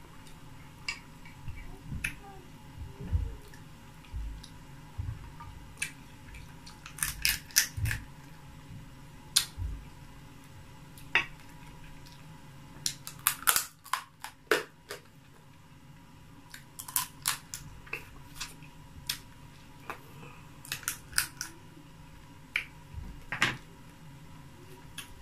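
Close-up mukbang eating sounds: wet lip smacks and chewing clicks while eating soft oatmeal fufu with soup by hand, coming in irregular clusters with short pauses between them.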